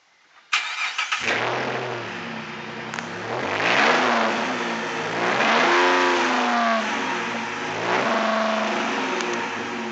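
2010 Dodge Challenger SE's 3.5-litre V6 cranking and starting about half a second in, then idling through Flowmaster dual exhaust mufflers and being revved up and back down several times.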